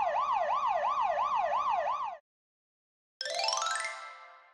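Cartoon fire truck siren sound effect: a fast yelping tone that sweeps up about three times a second, stopping about two seconds in. About a second later a rising, whistle-like sliding sound effect starts and fades out.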